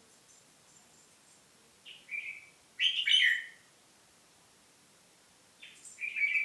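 A songbird giving short chirping song phrases in three bursts, about two, three and six seconds in, the one near three seconds the loudest.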